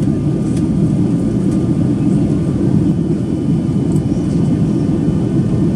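Steady low rumble inside the cabin of a Boeing 737-800 taxiing after landing, its CFM56 engines at idle, with a few faint ticks.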